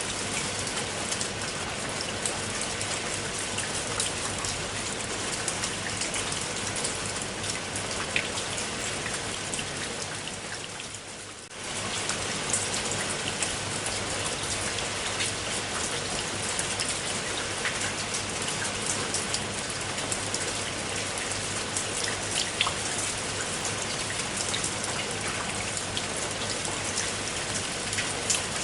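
Steady rain falling, with individual drops ticking sharply on a surface. About eleven seconds in it briefly fades down and comes straight back.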